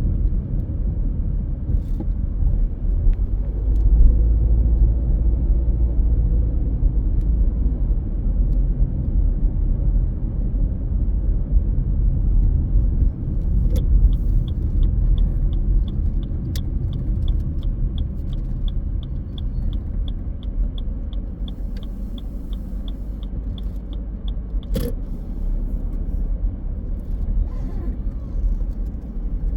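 Car driving, a steady low rumble of engine and road noise. Midway an even ticking, about two or three ticks a second, runs for about ten seconds, and near the end there is a single sharp click.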